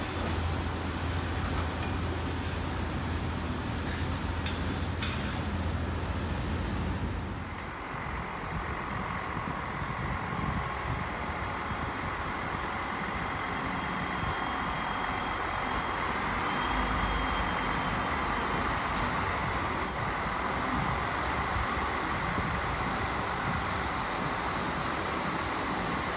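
A train running past on the line: continuous rolling noise, with a low steady hum that stops about seven seconds in while the rest carries on.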